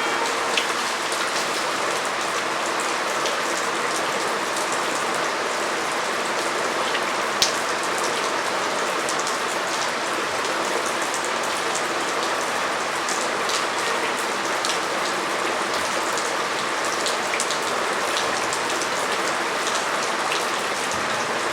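Steady rain falling on a surface, a continuous hiss dotted with many small drop ticks, one sharper drip about seven seconds in.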